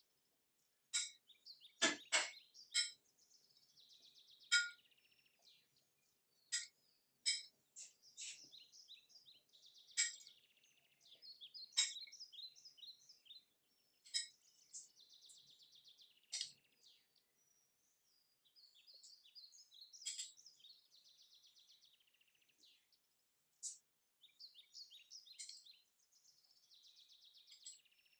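Small birds chirping: short, sharp chirps every second or two, with softer buzzy trills between them.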